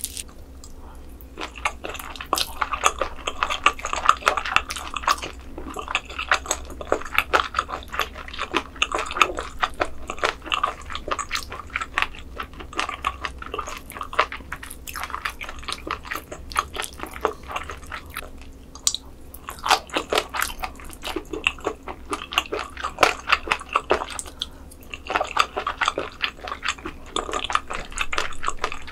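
Close-miked chewing of thinly sliced raw squid sashimi: wet, sticky mouth sounds with a rapid run of small clicks.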